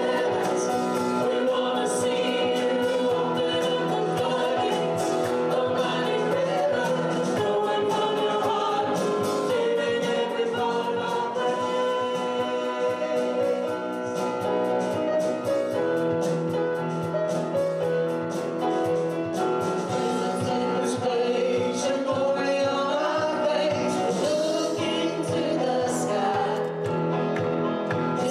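Gospel worship song: a group of voices singing together over instrumental accompaniment.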